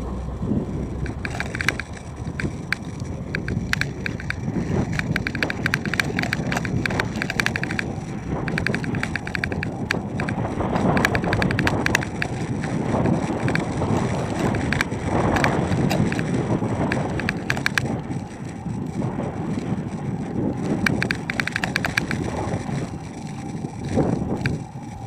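Strong wind buffeting the microphone while riding an electric-assist bicycle, with bursts of rapid rattling clicks from the bike throughout.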